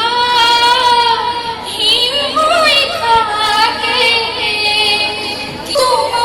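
A woman singing in a high voice, holding long notes with a slight waver, with short breaks between phrases about two seconds in and near the end.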